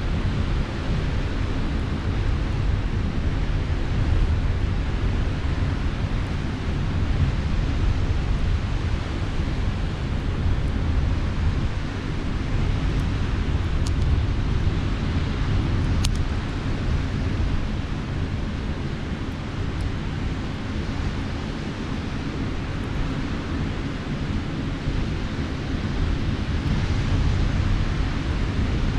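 Steady low rumble of sea surf on the shore, with a couple of faint sharp crackles from a campfire about halfway through.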